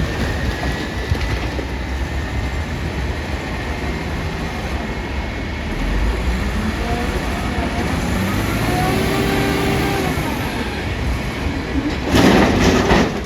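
Heavy diesel machinery working, its engine rumbling with the pitch rising and falling about halfway through, and a loud rattling crash near the end.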